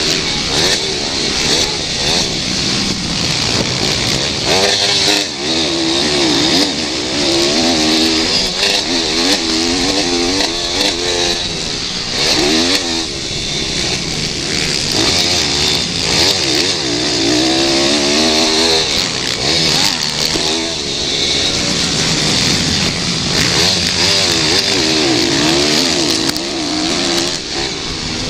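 Several pit bikes racing, their small single-cylinder engines revving hard and dropping back over and over, the pitch rising and falling in overlapping waves every few seconds.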